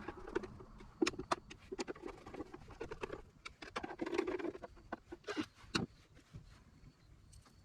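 Irregular sharp clicks and light taps, clustered in the first six seconds and thinning out after that.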